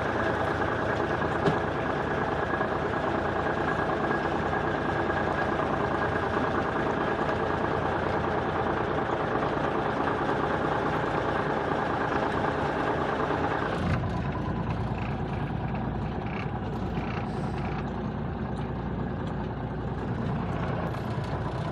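1985 Freightliner cabover semi's diesel engine running steadily, with a short knock about a second and a half in. About 14 seconds in, the sound changes abruptly to a duller, lower engine note.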